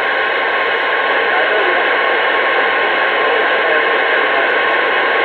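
CB radio static: a steady, loud hiss from the radio's speaker, with no voice on the channel.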